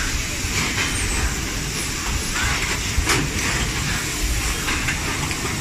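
Steady mechanical noise and hiss from an automatic soldering machine running, with one sharp click about three seconds in.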